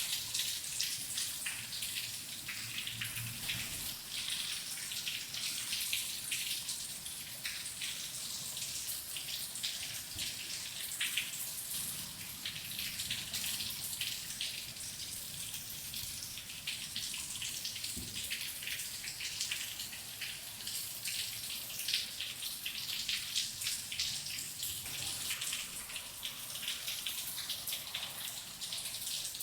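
Steady rain, with many individual drops heard close up.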